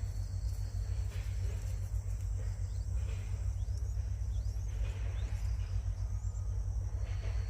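Outdoor ambience: a steady high-pitched insect drone over a constant low rumble, with a few faint short rising chirps in the middle.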